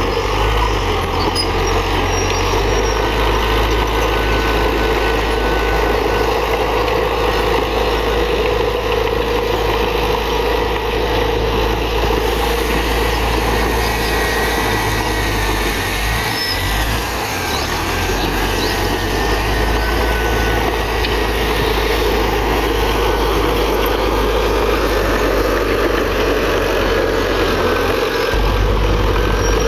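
Heavy diesel earthmoving machinery running steadily under load, with a deep rumble that dips briefly about halfway through.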